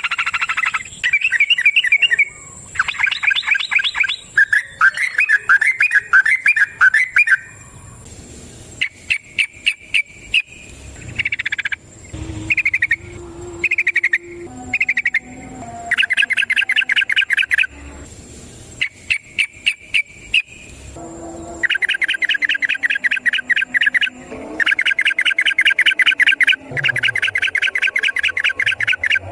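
Yellow-vented bulbul singing its long chattering 'ropel' song. It gives runs of rapid, evenly repeated notes, some brief and some lasting several seconds, the longest near the end.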